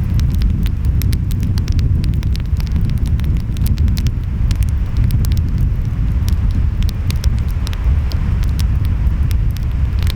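Wood fire crackling, with frequent sharp pops, over a steady low rumble of ocean waves and wind.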